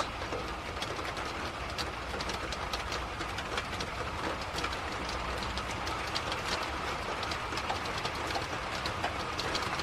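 Steady rain, a constant hiss with many small scattered ticks of drops striking nearby surfaces.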